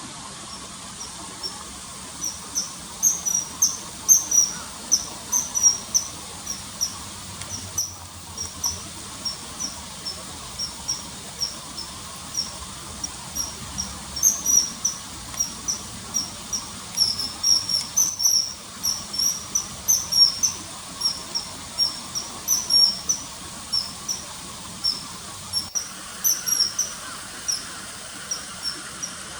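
Common kingfisher calling: a long run of short, shrill, high-pitched notes, several a second in irregular bursts, starting about a second in, over a steady faint background hiss.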